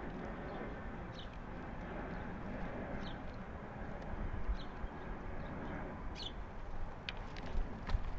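Short high bird chirps, four in a row about a second and a half apart, over a steady low outdoor rumble. A few sharp clicks come near the end.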